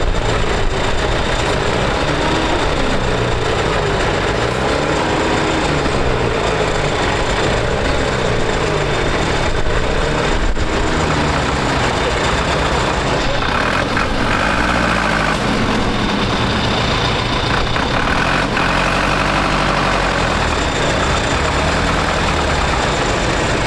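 Heavy diesel tractor engine running under load in deep mud, its speed rising and falling again and again as the throttle is worked.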